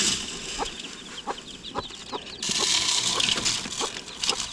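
Mother hen clucking steadily, about two clucks a second, while her young chicks peep in high chirps. About halfway through, a steady hiss comes in under them.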